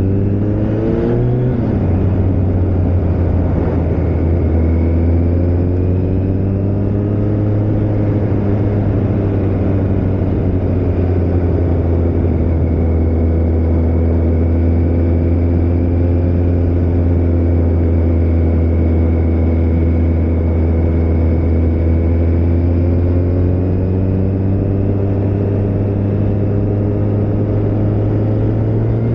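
Kawasaki ZZR1400's inline-four engine running at a steady cruise under wind and road noise. Its pitch rises and drops once about a second in, sags slightly partway through, and climbs near the end as the bike speeds up.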